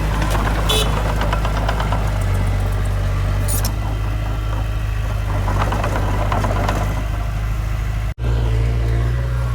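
Diesel engine of heavy earthmoving machinery running steadily, with a few short metallic clanks. The sound drops out briefly a little after eight seconds and comes back with a different engine tone.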